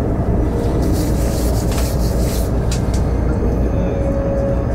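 Passenger train running along the track, heard from inside the carriage: a steady low rumble with a rushing hiss, which swells briefly about a second in.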